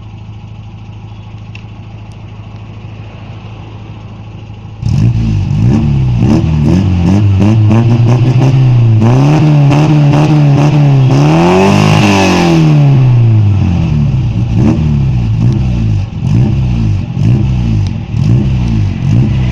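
Premier Padmini car engine heard through its exhaust: idling evenly at first, then about five seconds in it becomes much louder and is revved up and down several times, the biggest rev about two-thirds of the way through, with sharp crackles in between.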